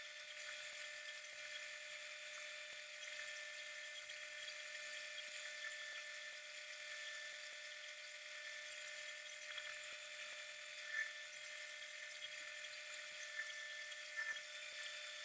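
Faint, steady whine of a small electric machine running, with a few light ticks near the end.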